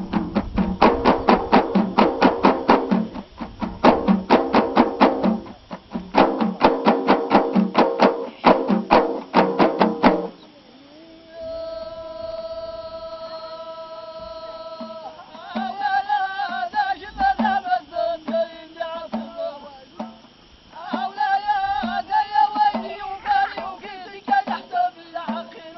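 Ahidous music: frame drums beaten in a fast, driving rhythm that stops suddenly about ten seconds in. One voice then holds a long sung note, and a group of voices answers in ornamented call-and-response singing over light, regular drum beats.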